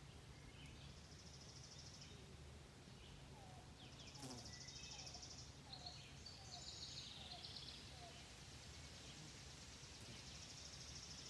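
Faint garden ambience with distant birds singing: high trilling phrases come and go, and a run of short chirps repeats about twice a second through the middle, over a low steady hum.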